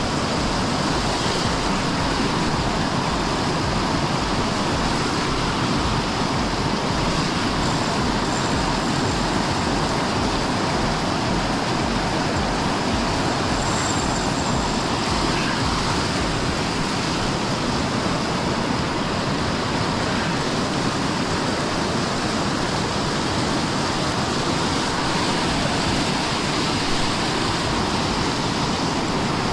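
Waterfall and flooded river water rushing in a steady, loud, unbroken wash of noise.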